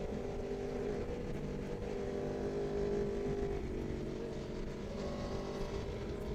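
Sport motorcycle engine running on a highway ride, a steady engine note that rises and falls slightly in pitch.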